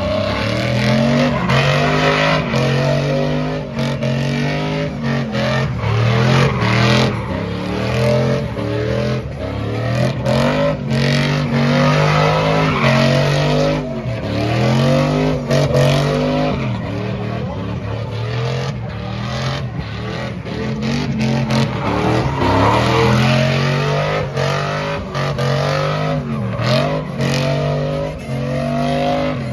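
A truck engine held at high revs during a burnout, the revs rising and falling again and again, with tires squealing and spinning.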